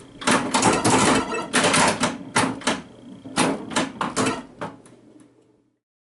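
A rapid, irregular series of sharp mechanical clicks and clacks, stopping abruptly about five and a half seconds in.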